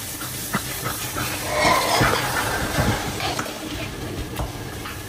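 Mutton korma sizzling in a pot as it is stirred with a wooden spoon, with a few short knocks of the spoon against the pot.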